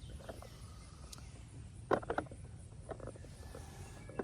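Outdoor background with a steady low rumble, broken by a quick cluster of sharp clicks about halfway through and a few fainter ticks near the end.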